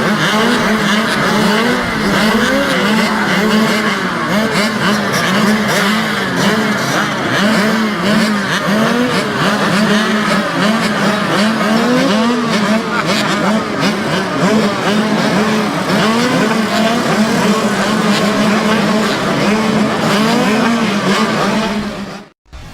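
A pack of small two-stroke mini motocross bikes racing together, many engines revving up and down over one another without a break.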